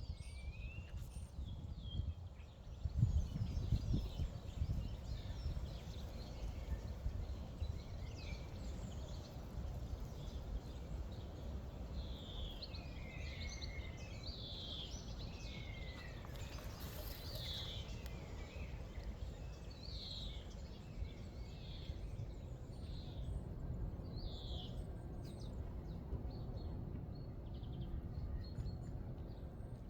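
Birds singing: a run of short, falling chirps, starting about twelve seconds in, over a low steady outdoor rumble that swells briefly louder about three seconds in.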